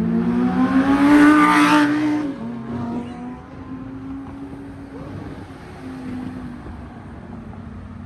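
A car engine revving up hard as the car accelerates past, rising in pitch and loudest about a second or two in, then dropping away to a quieter, steady engine sound.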